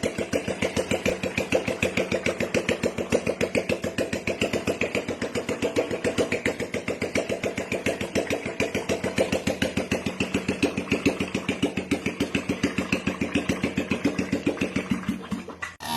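An engine running at a slow, steady beat, about five firing pulses a second.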